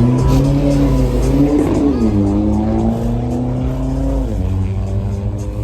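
Car engine accelerating hard through the gears: the pitch climbs, drops sharply about two seconds in at an upshift, climbs again and drops at a second shift near the end.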